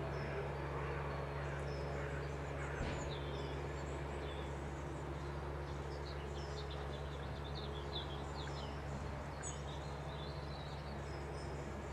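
Several small songbirds chirping and whistling in short, quick phrases, over a steady low hum.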